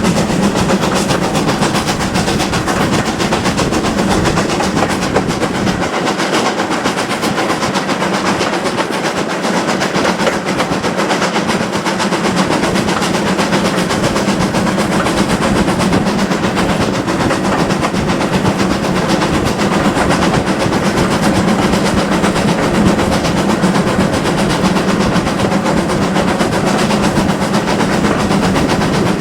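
Steam-hauled heritage train running steadily, a continuous loud rumble and clatter of wheels and carriages on the track.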